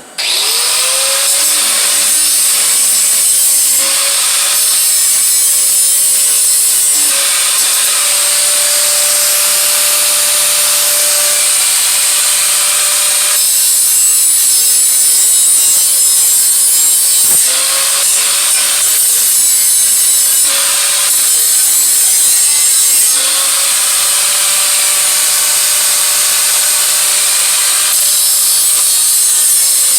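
Electric power grinder working the steel exhaust head pipe, running steadily and loudly with a high grinding hiss. It spins up right at the start, and its motor dips and picks back up several times as the tool is let off and pressed again.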